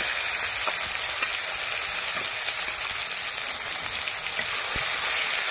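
Ground mustard, nut and green chilli paste sizzling steadily in hot mustard oil in a metal kadai, just after being added, with a few light scrapes of a flat metal spatula.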